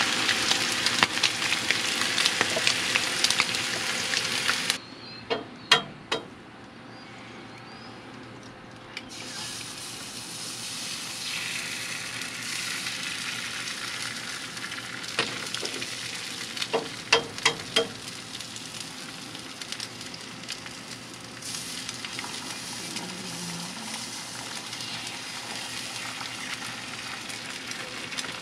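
Bacon sizzling on a flat griddle plate over a Coleman gas camp stove, loud for the first few seconds. After a few sharp clicks the sizzling carries on more quietly as eggs fry on the plate, with a few more clicks along the way.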